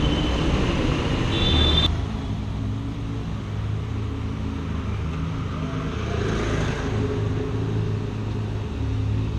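A car engine running at low, steady revs, with a low hum and no revving. The sound changes abruptly about two seconds in.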